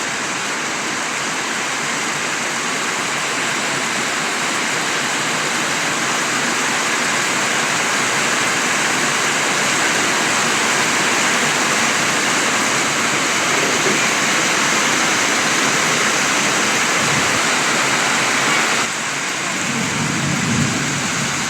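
Heavy rain pouring down with water rushing past, a steady loud hiss that drops slightly in level near the end.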